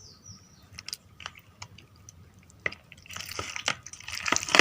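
Raw chicken in a thick egg and flour batter being squished and mixed in a bowl: a few light clicks, then steady wet squelching from about three seconds in.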